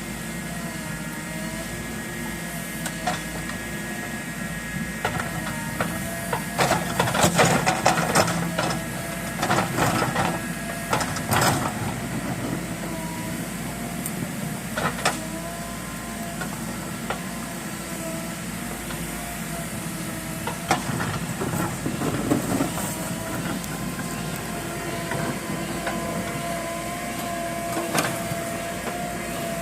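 JCB backhoe loader running, its engine note rising and falling slightly, with bursts of clanks and knocks between about six and twelve seconds in and again around twenty-two seconds.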